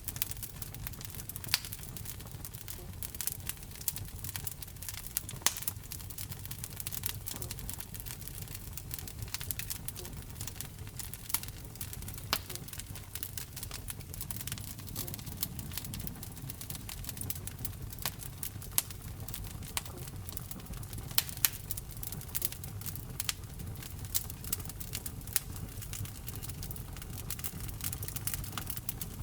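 Wood fire burning in a fireplace: irregular sharp crackles and pops from the burning logs over a low, steady rumble of the flames.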